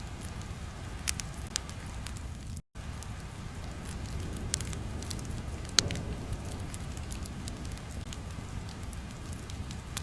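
Crackling fire ambience: a steady low rumble with scattered sharp pops, the sound cutting out for a split second about two and a half seconds in.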